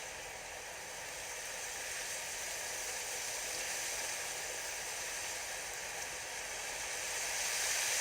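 Wind blowing as a steady hiss that slowly swells and eases, strongest near the end.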